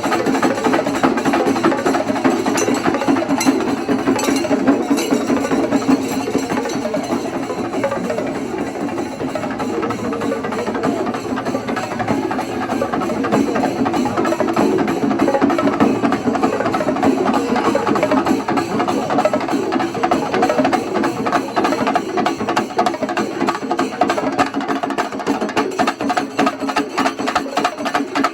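Kerala temple-festival percussion ensemble: many drums struck in a fast, dense, continuous rhythm.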